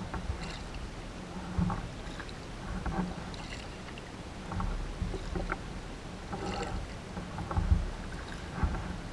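Kayak paddling: paddle blades dipping and splashing in the water at irregular intervals, over a steady low rumble.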